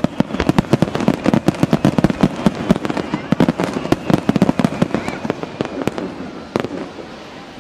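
Barrage of aerial firework shells bursting in quick succession, many sharp bangs a second, echoing around the surrounding mountains. The bangs thin out about six seconds in, ending with one last bang.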